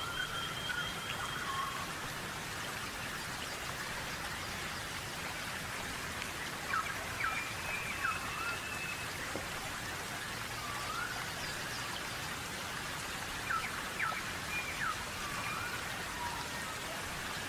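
Wild birds calling over a steady hiss: a short thin whistle at the start, then two bursts of quick swooping whistled notes, about seven seconds in and again about fourteen seconds in.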